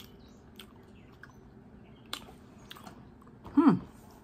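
A person chewing food close to the microphone, with soft scattered mouth clicks and smacks. Near the end comes a short, loud voiced "mmm" that falls steeply in pitch.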